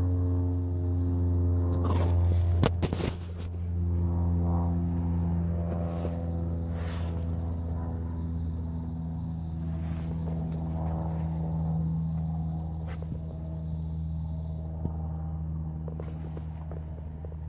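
Classic Camaro's engine idling steadily, with a cluster of clicks and scrapes about two to three seconds in.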